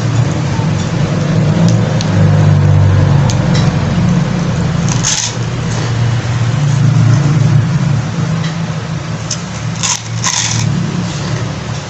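A steady low rumbling hum throughout, with sharp crunches of fried pork rind (chicharon) being bitten and chewed about five seconds in and twice around ten seconds.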